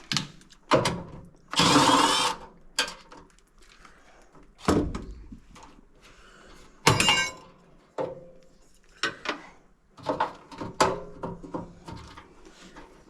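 Tools and parts being handled: a run of sharp clicks and knocks, with two short harsh bursts about two and seven seconds in.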